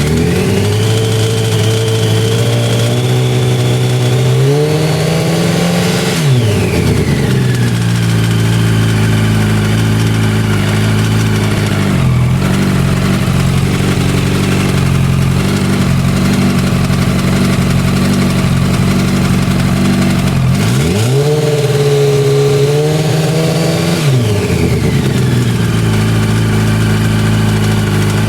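Yamaha YZF-R1 (5VY) 998 cc inline-four engine running with the bike stationary, revved up and held at raised revs for about six seconds, then dropping back to a steady idle; it is revved again about 21 seconds in, held briefly, and settles back to idle. At idle it has a rattle or knock whose cause the owner does not know.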